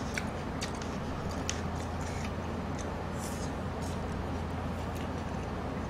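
Chewing and soft mouth clicks from people eating, a few scattered short ticks over a steady low room hum.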